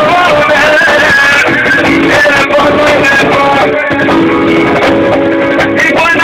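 Loud live band music with a plucked-string melody and singing.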